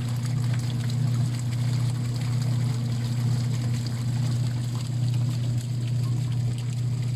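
Washing machine running with a steady motor hum, and water sloshing in the tub.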